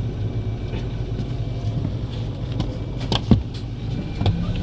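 Diesel engine of a Kobe City bus (type PKG-AA274KAN), heard from inside the cabin as a steady low hum as the bus moves off from a stop. A sharp clunk sounds a little over three seconds in.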